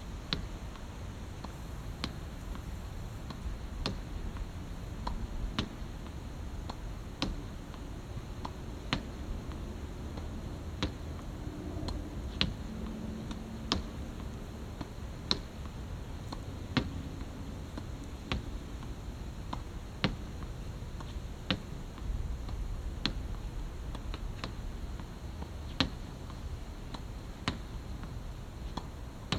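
Badminton racket striking shuttlecocks in a repeated drill: a sharp crack every second or two, over a steady low hum.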